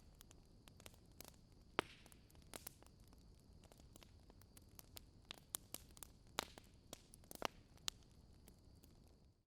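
Wood fire crackling quietly: irregular sharp pops and snaps over a faint hiss, cutting out suddenly at the very end.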